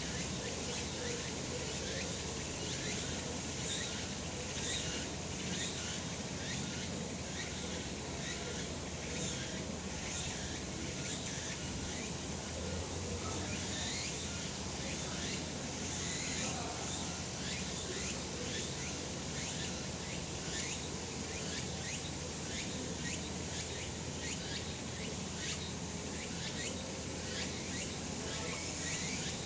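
Cicadas singing in a steady, dense summer chorus, a continuous high buzzing with fine pulsing.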